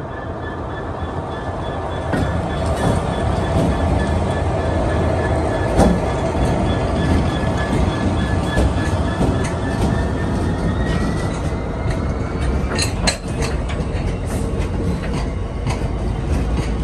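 GBRf Class 66 diesel freight locomotive approaching and passing with its engine running, then a rake of box wagons rolling by, their wheels giving sharp clicks and knocks over the crossing's rails.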